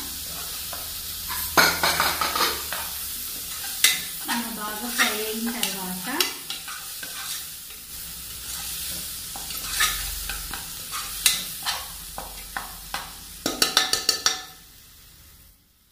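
Tomato-chilli masala sizzling in hot oil in a pressure cooker while a metal spoon stirs it, scraping and clicking against the pot's sides. The sizzle is steady, the spoon clicks come in quick runs, thickest a little before the end, and the sound falls away just before the end.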